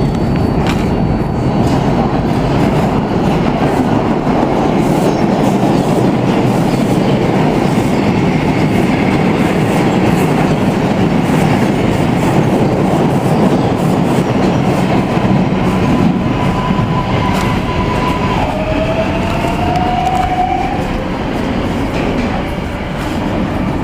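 New York City subway trains, with an R142 express running through the station: a loud, steady rumble of running rails and wheel clatter. In the last third an electric propulsion whine holds one tone, drops lower and glides upward.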